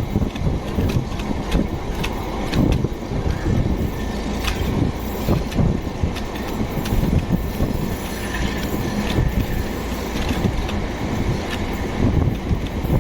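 DC class diesel-electric locomotive running past with its train: a steady, loud rumble scattered with irregular sharp clicks.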